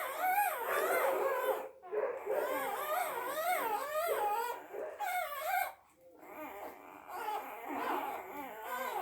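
A dog whimpering and whining: high, wavering cries that rise and fall several times a second, with short breaks about two seconds in and again near six seconds.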